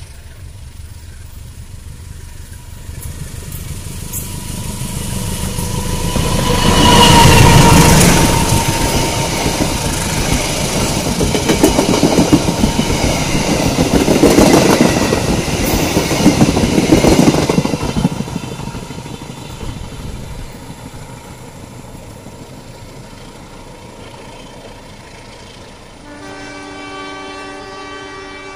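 Diesel-hauled passenger train approaching and passing close by, with the locomotive's engine running and the wheels clacking over the rails. It is loudest as the locomotive goes by about seven seconds in, then the coaches roll past and the sound fades away. Near the end a train horn sounds one steady blast.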